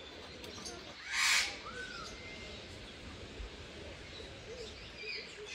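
A bird gives one loud, harsh, hoarse squawk about a second in, followed by a short whistled note, with faint chirping of other birds throughout.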